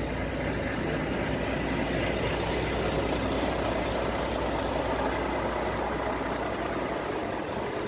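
Heavy diesel engine running steadily, a low even drone, with a short hiss about two and a half seconds in.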